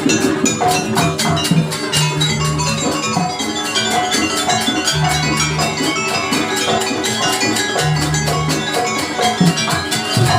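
Jaranan dance music from a gamelan-style ensemble: a fast, steady beat on drums and tuned metal percussion, with deep held notes coming in every few seconds.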